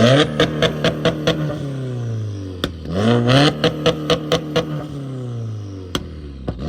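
Car engine with aftermarket mufflers revved hard twice, each rev falling away slowly with a string of sharp exhaust pops and crackles, and a third rev starting near the end.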